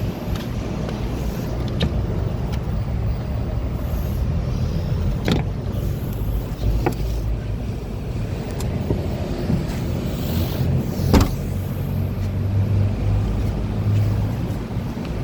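Mazda 3 1.5-litre engine running steadily with a low hum, with a few short clicks, the loudest about eleven seconds in.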